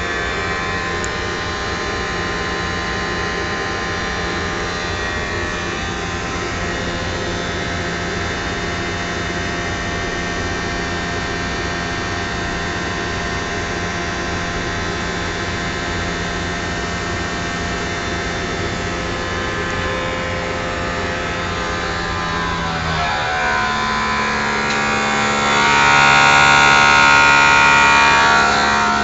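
Triangle blower motor running with a steady, multi-toned whine and hum. About 23 seconds in, its pitch shifts as the speed changes. It then grows louder for about three seconds near the end before it settles back.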